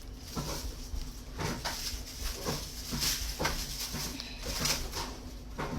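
Irregular small clicks and rustles of hard plastic toy pieces being handled and pressed together.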